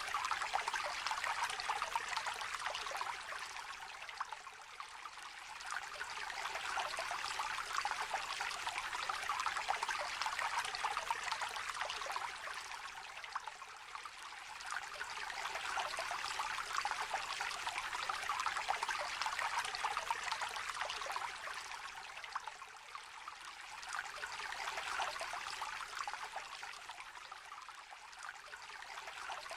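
Shallow stream trickling and babbling over stones, a steady rush of water that swells and eases every several seconds.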